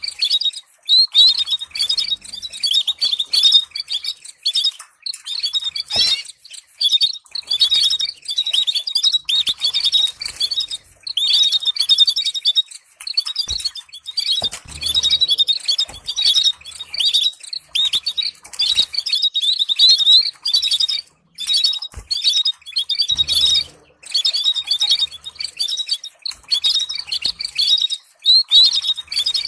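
Canary singing a long, fast warbling song of rapid trills and rolls, broken by brief pauses, with a few short clicks in between.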